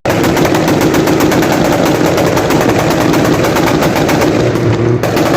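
Car engine held on a two-step launch limiter, its exhaust popping and crackling in a fast, continuous stream of bangs like machine-gun fire.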